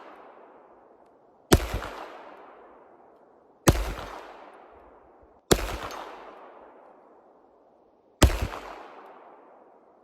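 Four shots from a 9mm HK VP9 pistol, spaced about two seconds apart, each trailing off in a long fading echo.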